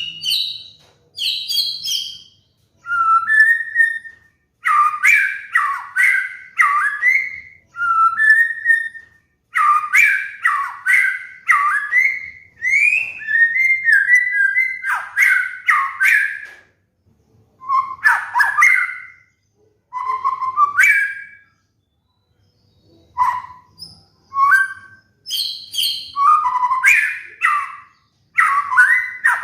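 White-rumped shama (murai batu) singing: loud, varied whistled phrases about a second long, one after another with short gaps, and a longer pause about three-quarters of the way through.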